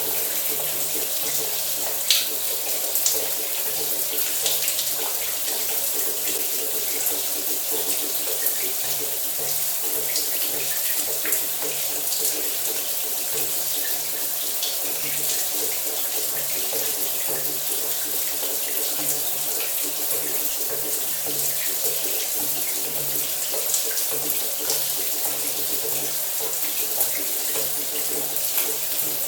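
Shower water running steadily, a constant spray hiss with small drop splashes scattered through it.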